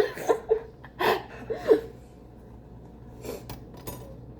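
A few short vocal sounds, gasps or half-laughs, in the first two seconds, then a few faint clicks and scrapes of a knife against the cake pan as the stuck cake's edges are loosened.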